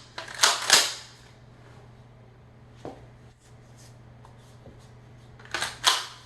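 Pump-action shotgun's slide being racked back and forward: two sharp metallic clacks about a third of a second apart just after the start, and another pair near the end.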